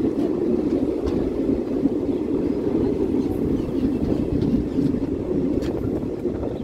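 Indian Railways train running along the track: a steady low rumble with a few faint clicks.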